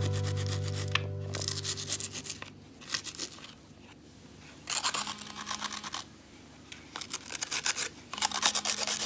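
Sandpaper rubbed by hand in rapid back-and-forth strokes, polishing a part of a kerosene fan heater, in three spells with short pauses between them. The end of a song fades out in the first second or two.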